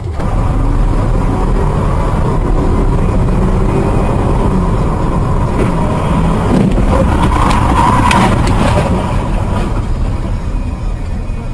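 Car engine and road noise, steady throughout, with a brief louder rise about seven to eight seconds in.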